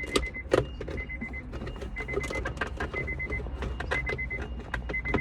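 Hard plastic trim of a 2003 Honda Accord center console clicking and creaking as it is worked loose by hand, in many irregular sharp clicks. A steady electronic beep sounds about once a second behind it.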